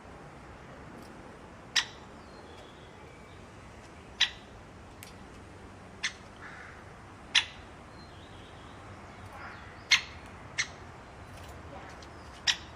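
Pet bird giving short, sharp chirps, about seven single calls spaced one to two and a half seconds apart, over a steady faint background hiss.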